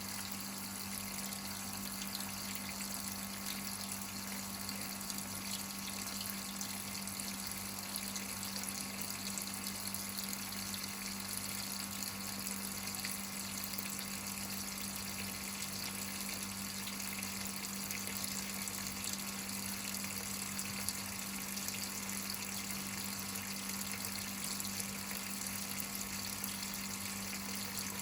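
Whirlpool top-load washing machine filling with water: a steady rush of water pouring into the tub, with a constant low hum underneath.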